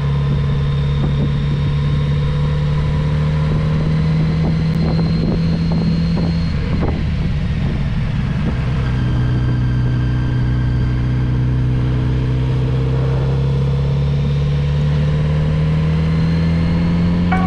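Kawasaki Z900RS inline-four engine heard from the rider's seat, pulling steadily with its pitch slowly rising. About seven seconds in the pitch drops, then climbs again through the rest as the bike accelerates, with some wind noise on the microphone.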